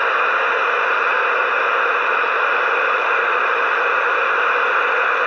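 Steady, loud hiss of CB radio static, with no voice coming through.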